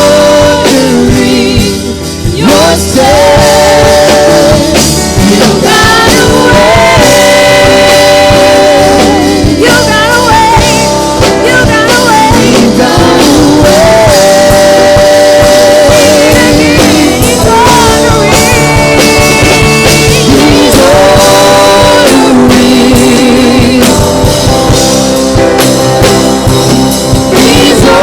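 Live gospel worship band playing a slow song, with a lead melody that bends and wavers in pitch over a steady accompaniment.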